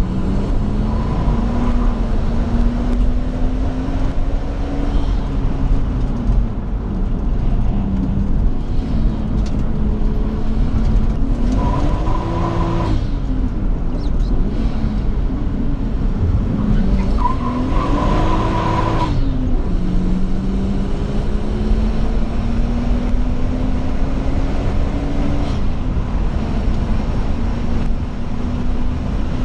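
Nissan Skyline R34 GT-T's turbocharged 2.5-litre straight-six heard from inside the cabin at full track pace, its note climbing slowly with the revs and dropping back at the shifts. Twice, about a third and two thirds of the way through, the revs swell up and fall away over a second or so with a high whine and a rush of noise.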